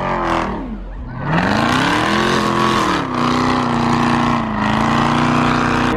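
Jeep Grand Cherokee Trackhawk's supercharged V8 under acceleration: the engine note dips, then climbs in pitch from about a second in, drops at about three seconds as it shifts gear, and holds steady after that.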